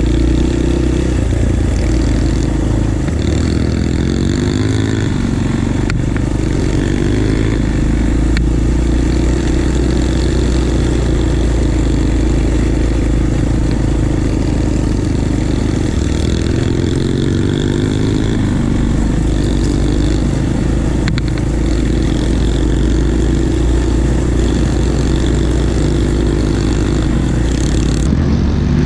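Pit bike engine running while riding, its pitch rising with the throttle a few seconds in and again about halfway through.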